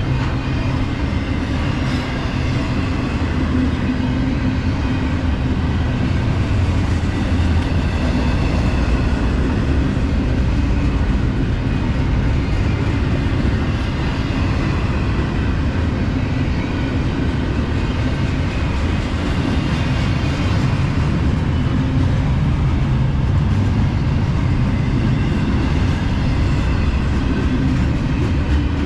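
Intermodal freight train rolling past: a loud, steady rumble of steel wheels on rail that runs without a break.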